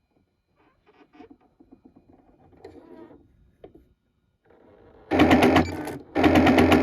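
Janome Secio computer embroidery sewing machine making a grinding gear rattle (a 'gagaga') in two loud bursts about five and six seconds in, after faint light clicking of its mechanism. The noise is a fault: a gear keeps driving the embroidery carriage further in when it can go no further.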